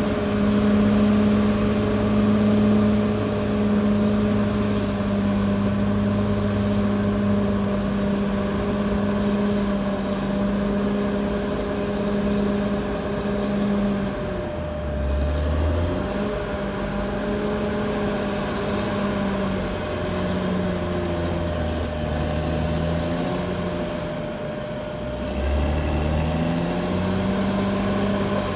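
Caterpillar D6R XL bulldozer's diesel engine running at a steady pitch, then dipping and wavering for about ten seconds from halfway through before settling back to a steady note near the end.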